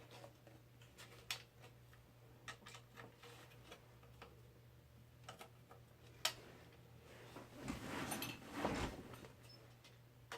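Scattered light clicks and taps from screws and a screwdriver being handled against a computer case while a motherboard is fitted, with a sharper click about six seconds in and a stretch of scraping and rubbing near the end.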